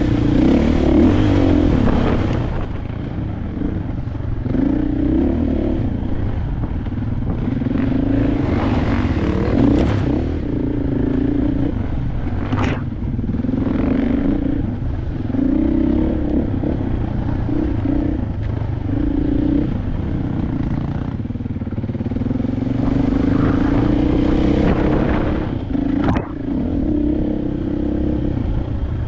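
KTM 500 single-cylinder four-stroke dirt bike engine on the move, repeatedly opening up and easing off the throttle. A few sharp clacks cut through, about ten, thirteen and twenty-six seconds in.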